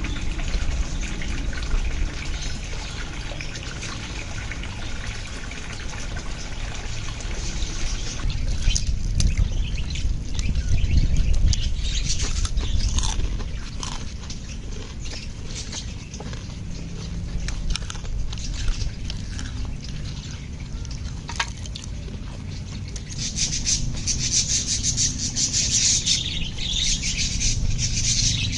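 Birds chirping and calling over a steady low rumble, the chirping growing busier and louder near the end.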